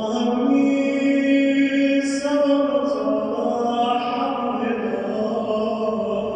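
A man's solo voice chanting an Arabic supplication in a drawn-out melodic style, one continuous phrase of long held notes that rise and fall slowly in pitch.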